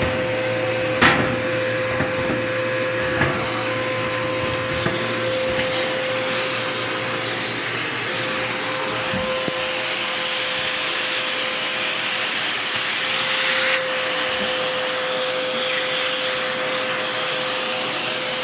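Dirt Devil Power Max vacuum running with its hose in use: a steady motor hum with rushing suction. A few sharp clicks come in the first few seconds, and there is a brief louder surge about 13 seconds in.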